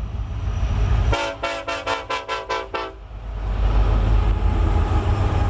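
Locomotive air horn sounding one steady blast of several notes, starting about a second in and lasting almost two seconds, over a low rumble from the train.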